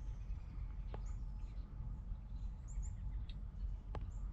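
Outdoor ambience: faint, short high-pitched bird chirps over a steady low rumble, with two brief clicks, one about a second in and one near the end.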